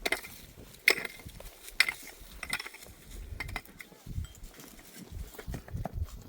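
Scattered sharp clinks and knocks, the three loudest about a second apart in the first two seconds and fainter ones after, over an uneven low rumble.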